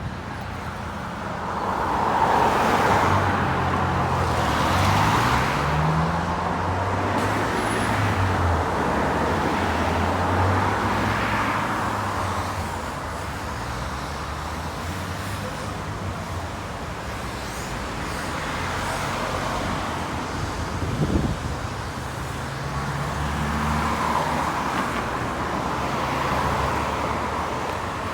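Road traffic: cars and buses passing one after another, each swelling and fading, over the low hum of an engine that rises in steps. A short knock sounds about three-quarters of the way through.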